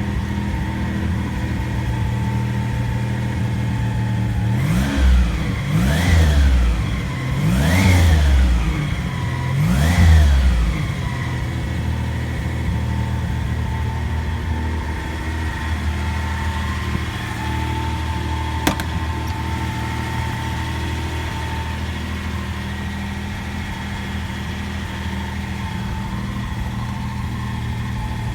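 Ford Capri 280 Brooklands' turbocharged 2.8-litre V6 idling on its first start-up. Four quick blips of the throttle come about five to ten seconds in, each rising and falling, before it settles back to a steady idle.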